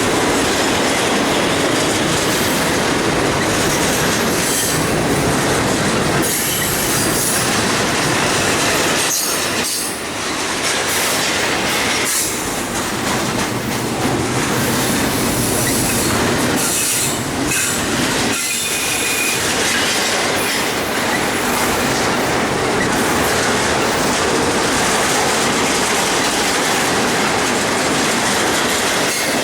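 Railroad cars rolling past close by, steel wheels clacking over the rail joints with bursts of high-pitched wheel squeal.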